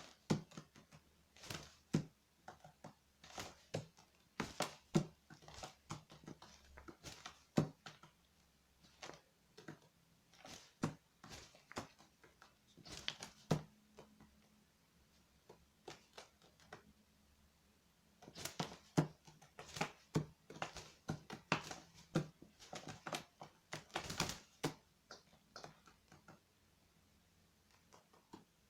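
Magpie pecking and striking at a spider with its beak: irregular sharp taps and knocks on a hard surface, coming in flurries.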